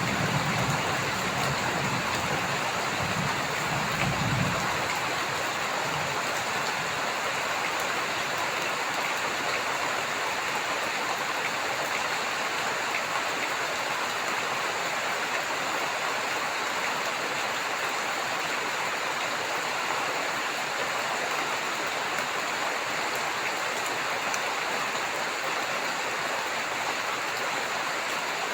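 Heavy rain falling steadily. The tail of a low thunder rumble fades out about four seconds in.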